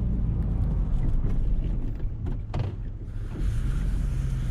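Snowplow vehicle's engine running steadily under load while pushing heavy, sticky snow, with a few short knocks.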